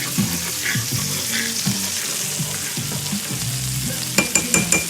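Food frying and sizzling in a pan as a thickening sauce cooks down. Near the end comes a quick run of about six sharp taps.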